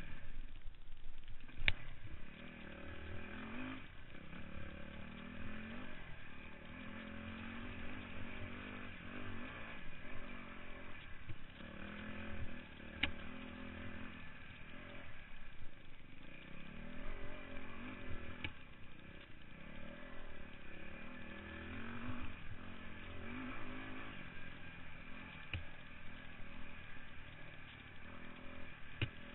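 Dirt-bike engine revving up and dropping back every couple of seconds as the throttle is worked, with a few sharp clicks.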